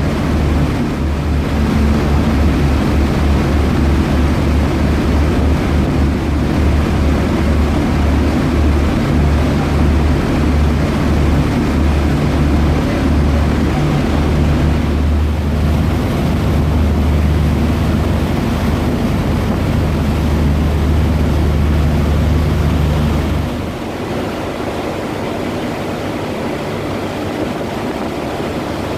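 Passenger ferry's engines running with a steady low hum under the rush of water and wind. About three-quarters of the way through, the engine hum drops away suddenly and only the rushing noise is left.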